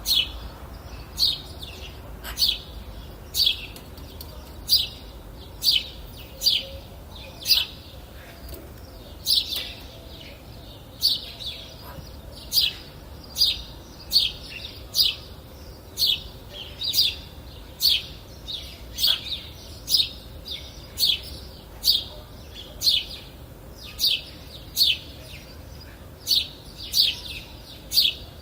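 A bird calling over and over: short high chirps repeated about once a second, over a faint steady background.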